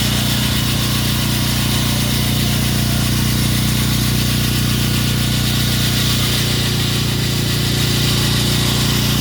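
Machinery engine running steadily at a constant speed, a steady low hum with a hiss over it and no change in pitch.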